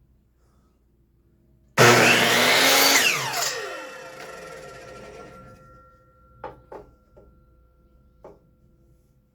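Electric power saw switched on, running hard for about a second, then switched off and spinning down with a falling whine that fades over a few seconds. A few light knocks follow near the end.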